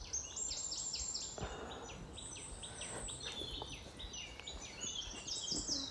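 Small birds chirping: many short, quick, high chirps that sweep downward, overlapping one another, over a faint outdoor background hiss.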